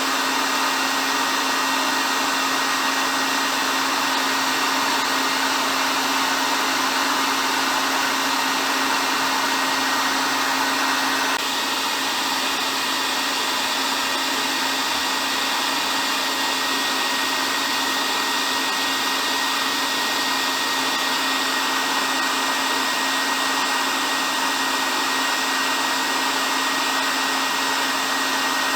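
Hair dryer running continuously, a steady airy whoosh of fan and blown air over a low motor hum. About eleven seconds in, the level dips slightly and the tone shifts a little, then it runs on unchanged.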